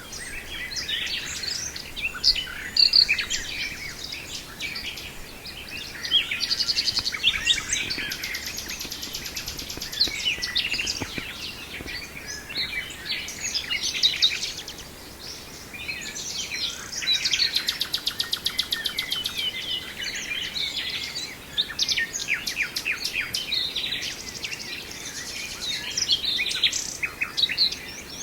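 Common nightingale singing a string of varied phrases, with fast rattling trills and whistled notes and short pauses between phrases.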